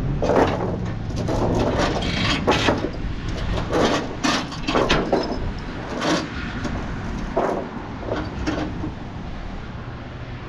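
Load-securing chains clinking and rattling as they are handled and tightened, in irregular metallic knocks, over a steady low engine hum.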